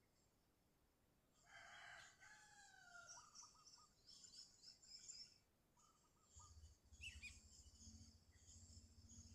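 Birds calling in short, high, chattering notes; the video is a recording of sooty-headed bulbul (kutilang) song. About a second and a half in, a single drawn-out call with several tones glides downward for about a second and a half, like a distant rooster crowing. A low steady hum joins after about six seconds.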